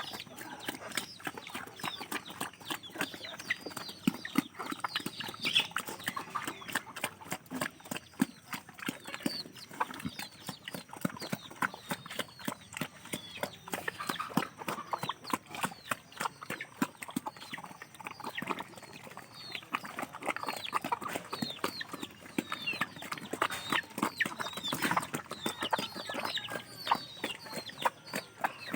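Chickens with chicks: short falling peeps and clucks over a dense run of quick small clicks and taps.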